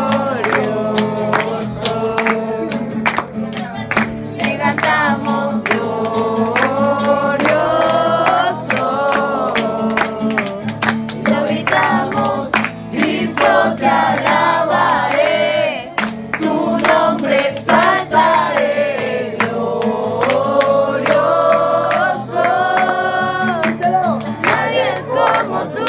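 A group of voices singing a song together over a steady instrumental accompaniment, with sharp rhythmic taps throughout.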